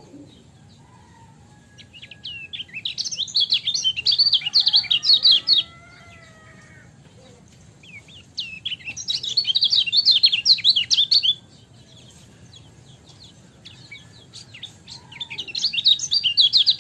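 Kecial kuning (yellow white-eye) singing three bursts of rapid, chattering high notes, each lasting about three to four seconds, with short pauses between.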